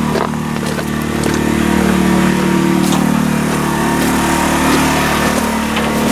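Vehicle engine idling steadily, swelling slightly about two seconds in, with a few light clicks over it.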